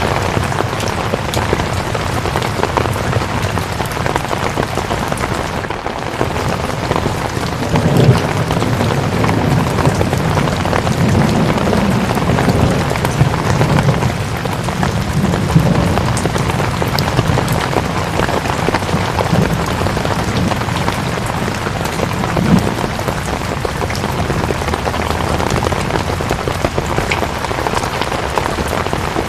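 Steady heavy rain falling, an even hiss with scattered drop patters, and a low rumble swelling in under it from about a quarter of the way in to about halfway.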